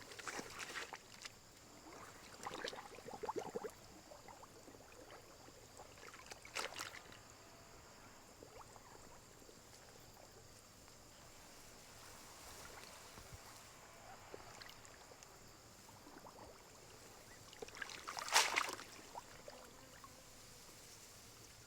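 Water sloshing and splashing in a few short bursts, the loudest near the end, over a faint steady hiss.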